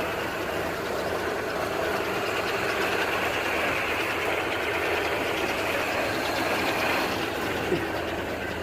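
1929 Ford Model A's four-cylinder flathead engine idling steadily.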